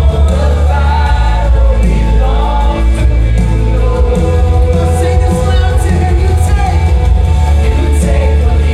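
Live church worship band playing loudly with a heavy bass line, voices singing over it and cymbal crashes in the second half.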